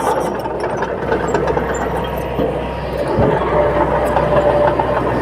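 Heavy diesel engine of earthmoving machinery running steadily, with a single thump about three seconds in.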